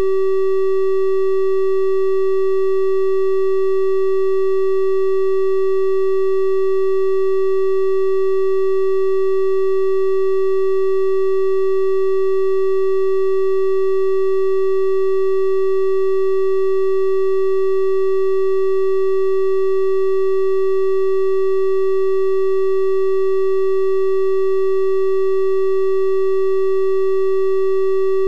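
Steady synthesized 384 Hz triangle-wave tone, one unchanging pitch with faint overtones, like a soft hum.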